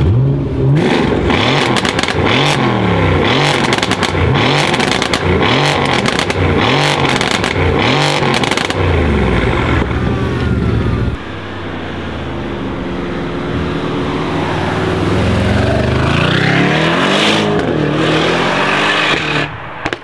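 Mercedes-AMG C63 S Estate's twin-turbo V8 revved repeatedly while parked, in quick rises and falls about once a second, with sharp exhaust pops and crackles between the revs. About eleven seconds in, a different car's engine takes over, accelerating and growing louder as it rises in pitch.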